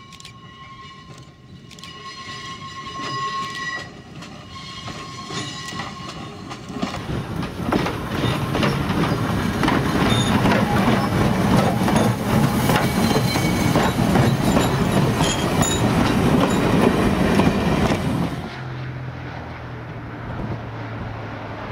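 Railway sound in three parts. First comes an electric interurban car rolling round a curve, with a steady high-pitched whine. From about 7 s a passenger car passes close by, a loud rumble and rapid clickety-clack of its wheels over the rail joints. Near the end, after a cut, the quieter steady hum of a distant diesel switcher's engine takes over.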